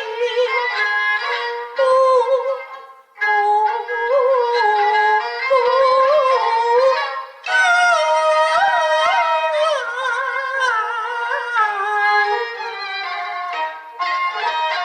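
Peking opera instrumental interlude led by a high-pitched bowed Chinese fiddle playing an ornamented, sliding melody, with two short breaks in the phrase.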